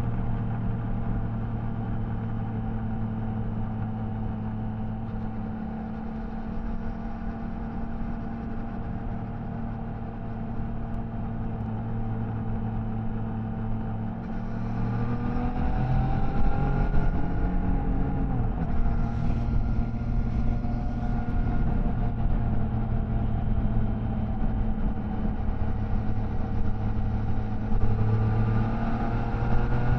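Triumph Tiger Sport 660's inline three-cylinder engine and exhaust on the move: it runs at a steady engine speed, then the pitch rises as the throttle opens about halfway through. It settles back to steady running and rises again near the end.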